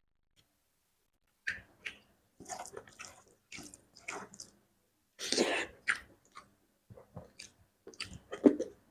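Close-up eating sounds: a person chewing and smacking wetly on a mouthful of fish curry with gravy, in short irregular bursts that begin about a second and a half in.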